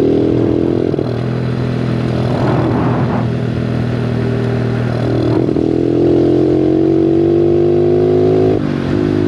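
Bigfoot 125 four-stroke pit bike engine running under load while ridden; its pitch climbs steadily from about halfway through, then drops suddenly near the end.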